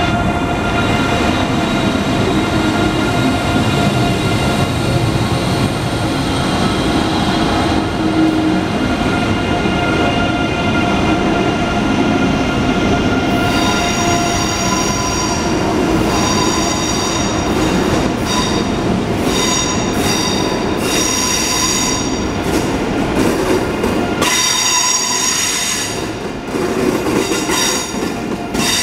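Train running close by, a loud, steady rumble with several steady whining tones. From about halfway through, a high-pitched squeal of the wheels comes and goes repeatedly.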